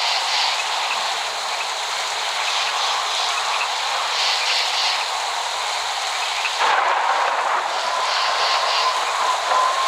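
Steady hiss of heavy rain. About two thirds of the way through the sound shifts suddenly, and near the end a thin high tone is held for about three seconds, rising slightly and then falling away.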